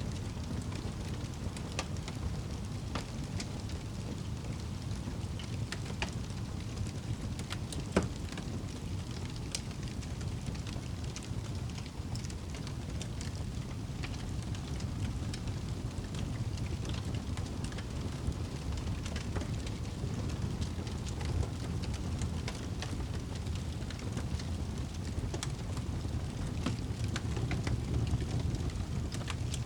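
Wood fire burning in a fireplace: a steady low rush of flames with scattered crackles and pops, one sharp pop about eight seconds in.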